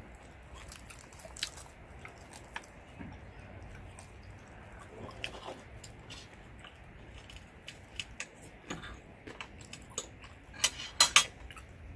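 Close-up chewing and biting of crispy fried food, with scattered sharp crunches through the chewing and the loudest few crunches in a quick cluster near the end.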